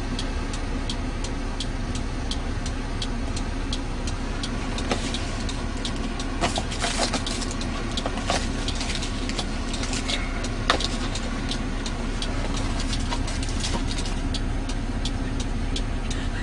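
Car engine idling steadily, heard from inside the cabin, with a regular clicking about two or three times a second over it. A few louder knocks come about halfway through.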